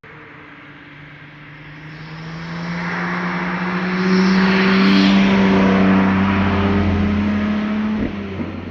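A car's engine under steady throttle as the car drives past: it grows louder over the first few seconds, is loudest about halfway through, then fades. The engine note holds nearly level and changes abruptly about a second before the end.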